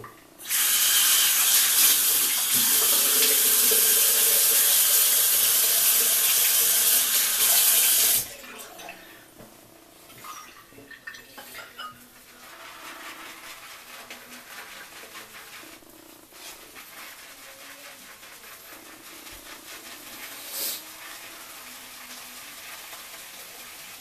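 Bathroom sink tap running hard for about eight seconds, then turned off abruptly. Quieter, irregular splashing follows as the face is rinsed.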